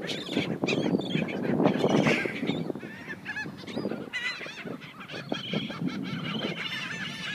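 A flock of seagulls squabbling over food, many short squawking calls overlapping one another.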